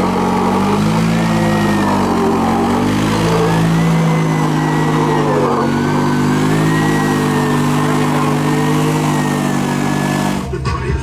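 A vehicle engine running hard at high revs, its pitch swaying up and down, with a thin whine above it. It cuts off abruptly near the end, giving way to music.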